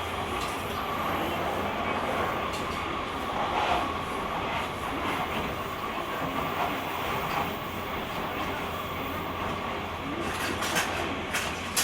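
JR Kyushu 883 series limited express (GTO-inverter motor car) running on the line, heard from the deck: steady running noise with a steady whine. A few sharp clicks come near the end.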